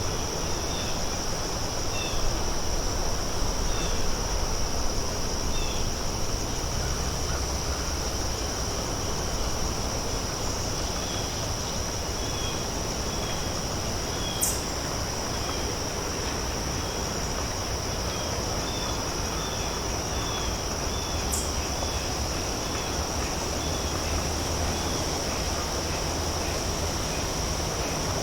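Crows picking and eating outdoors: a steady high insect drone runs underneath, with small repeated chirps and two sharp clicks, one about halfway through and one about three quarters of the way.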